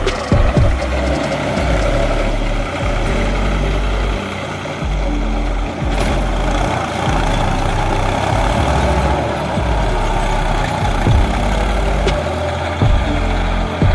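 Tractor engine running steadily while the tractor works the soil, with a few short knocks over it.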